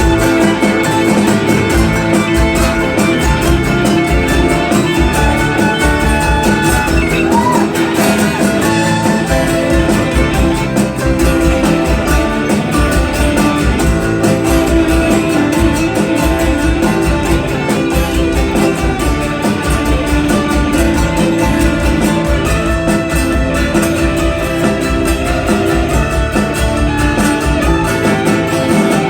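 A band playing an instrumental break of the song, with guitar over a steady beat.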